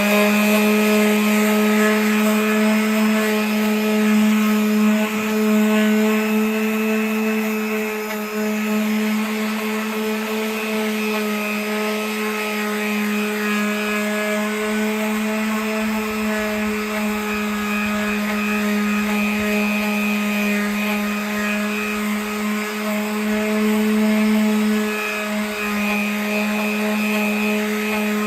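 Electric power sander running steadily with 220-grit paper on a wooden kick drum shell, a constant motor whine with light rubbing from the paper on the wood.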